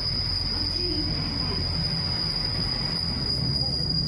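JR Hokkaido KiHa 261 series diesel limited express pulling into a station platform: a low rumble of engines and wheels with a steady high-pitched whine held over it.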